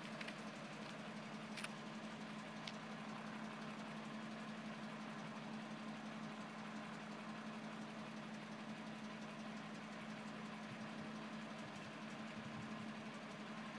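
Toyota Land Cruiser FJ40's inline-six F engine idling steadily and faintly, with a few light ticks in the first few seconds.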